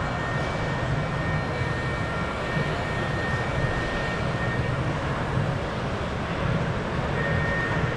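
Steady, unbroken background din of a large exhibition hall, heaviest in the low range, with faint thin tones near the top.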